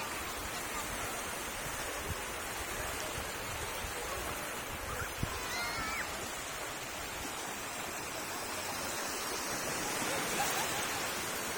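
Steady rush of sea surf washing on the shore, an even noise without breaks.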